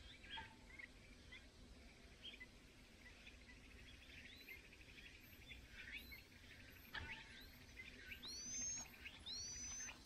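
Faint scattered bird chirps, with a sharp tick about seven seconds in. Near the end comes a run of thin rising calls, about one every second, louder than the chirps before them.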